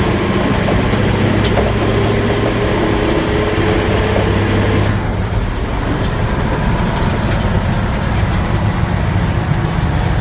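A 1980 Mack R-model diesel truck running, a steady low engine hum with mechanical rattling; the sound shifts about halfway through.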